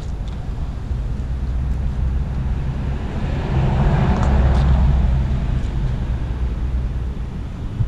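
A motor vehicle passing close by, growing to its loudest about four seconds in and then fading, over a steady low engine hum.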